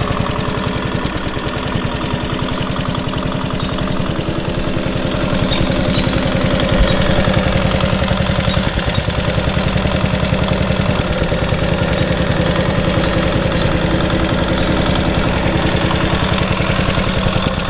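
1966 Honda P50 moped's 49 cc four-stroke single-cylinder engine idling steadily while warming up after a cold start, with an even, fast firing pulse. A single brief knock is heard about seven seconds in.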